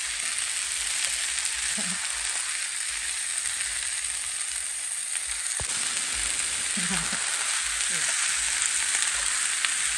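A frozen pasta, chicken and vegetable skillet meal sizzling steadily in a frying pan as it thaws and lets out its water. A single sharp click comes about halfway through.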